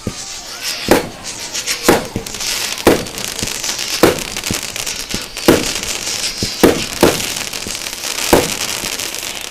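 Fireworks going off: a run of sharp bangs about one a second from bursting shells, with a steady crackle between them.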